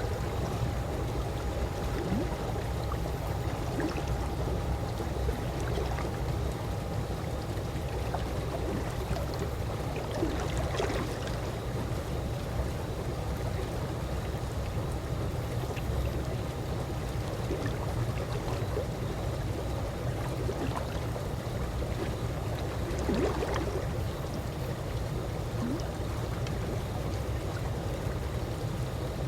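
Calm swimming-pool water lapping and trickling steadily over a low rumble, with a faint steady tone underneath and a couple of small splashes.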